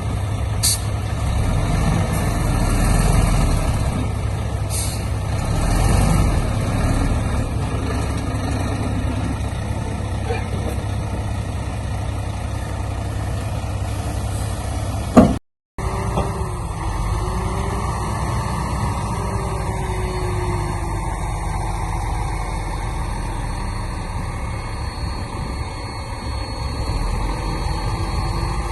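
Heavy diesel earthmoving machinery (bulldozer and dump truck) running steadily, with two short hisses of air in the first few seconds. About halfway through there is a sharp click and the sound cuts out for a moment.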